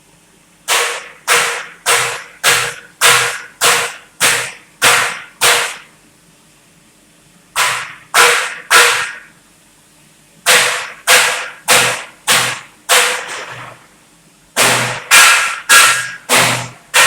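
Hammer blows on metal, struck in runs of sharp, evenly paced hits a little under two a second, with short pauses between runs.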